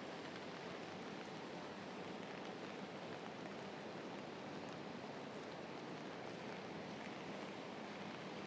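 Steady rain falling, heard from under an umbrella: an even, unbroken hiss with no single drops or events standing out.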